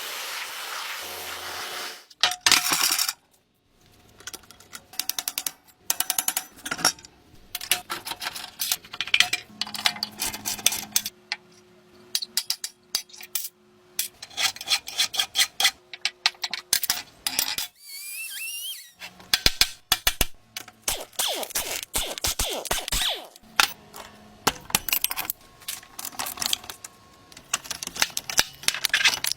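Small metal parts clinking and tapping: many sharp clicks and knocks in uneven clusters, with a brief rising squeak about two-thirds of the way through.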